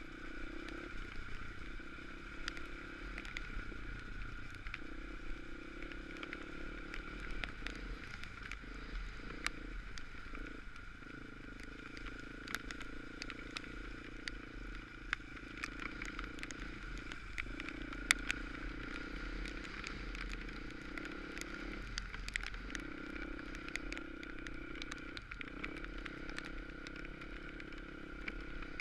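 Dirt bike engine running while riding, its note dropping away briefly every few seconds as the throttle eases, with many small clicks and rattles over rough ground.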